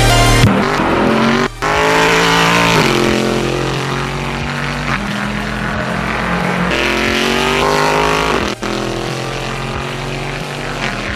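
Race car engine at high revs, its pitch climbing and falling. The sound briefly cuts out twice, about a second and a half in and again past eight seconds, as at gear changes.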